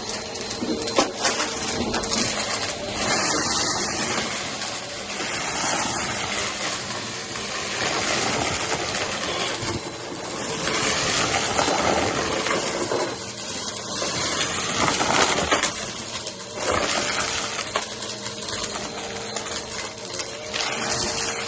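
Upright vacuum cleaner running over carpet, a steady motor hum under continuous crackling and rattling as crunchy cereal bits are sucked up.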